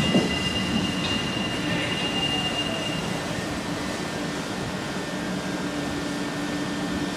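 Train running, with a high steady whine that stops about three seconds in over a steady lower hum and running noise.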